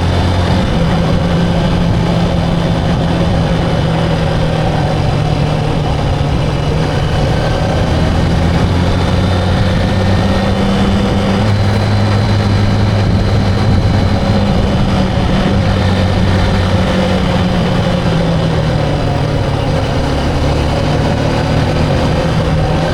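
Motorcycle engine running steadily under way, its low hum holding even with only small shifts in pitch.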